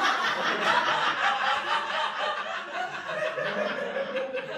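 Stand-up comedy audience laughing, many voices at once, slowly dying down toward the end.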